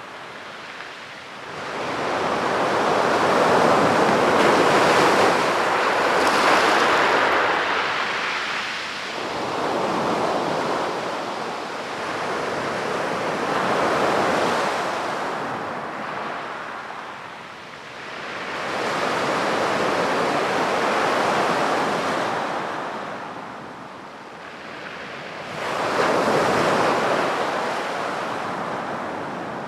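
Sea waves breaking on a beach and washing up the shore, the surf swelling and fading in slow surges, about five in all, the biggest near the start.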